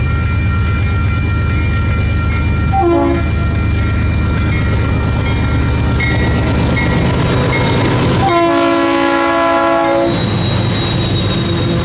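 Diesel freight locomotive's air horn blowing over the steady low rumble of the passing train: a short blast about three seconds in, then a long blast of about two seconds near the end, the closing short-long of a grade-crossing signal.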